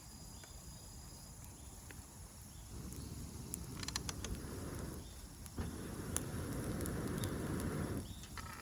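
Campfire crackling with a few sharp pops, crickets and other insects chirping steadily in the background. Two stretches of rushing noise, each about two seconds long, start about three seconds in and again just past the middle and are the loudest sound here.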